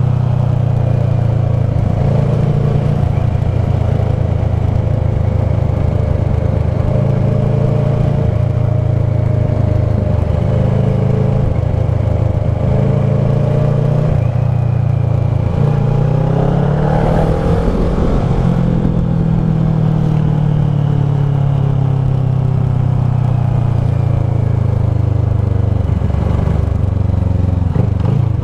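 Kawasaki ER-6f's parallel-twin engine running through a Leo Vince SBK slip-on exhaust, a steady engine note that drifts in pitch. About two-thirds of the way through, the note drops and then climbs again.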